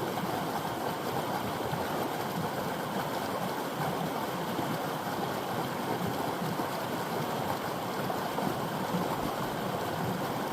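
A creek's water running and rushing over rocks, a steady even flow.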